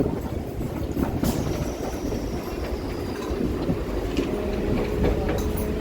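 Rumble and wheel clatter of a suburban local train running along the track, heard from inside the carriage. A faint high whistle falls in pitch early on, and a faint steady squeal comes in near the end as the train nears a station.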